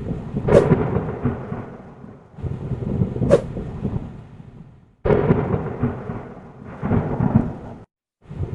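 Thunderstorm: thunder rumbling over rain, with sharp cracks about half a second and three seconds in. The sound cuts off abruptly twice, as separate clips are spliced together.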